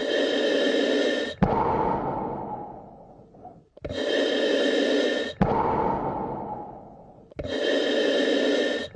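Slow, deep human breathing, three breaths in a steady rhythm. Each is a loud rush of air about a second and a half long that stops sharply, followed by a longer breath that fades away.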